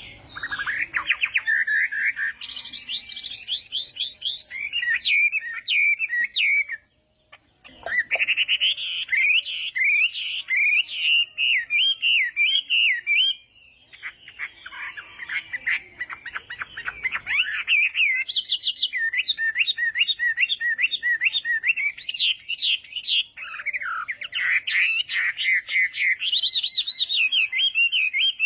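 Chinese hwamei singing a long, varied song of fast repeated whistled notes and trills, with a brief pause about seven seconds in.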